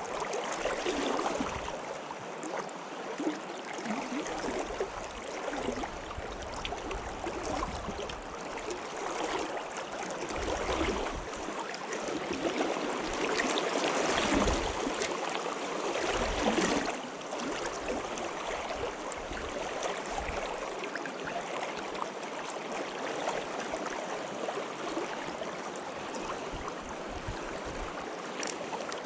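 Flowing stream water, a steady rushing burble that swells louder around the middle, with occasional low rumbles underneath.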